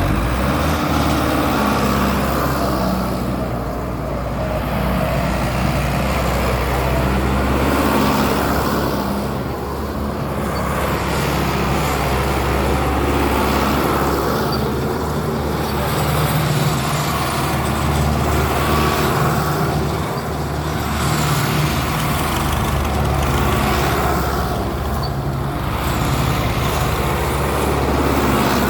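Tractor diesel engine running steadily, its level swelling and easing gently every few seconds.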